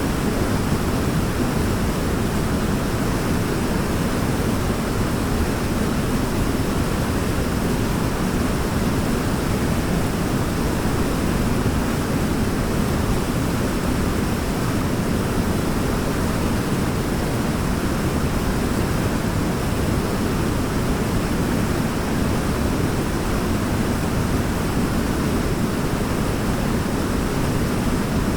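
Waterfall: falling water pouring in a steady, even rush with no change.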